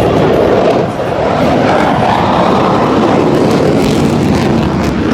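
Loud, steady roar of an aircraft engine going past, its pitch rising a little about halfway through and then settling.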